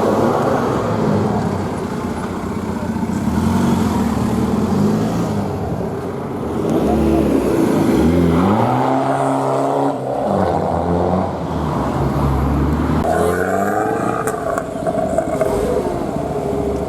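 Modified car engines revving and accelerating, rising and falling in pitch several times as they run through the gears.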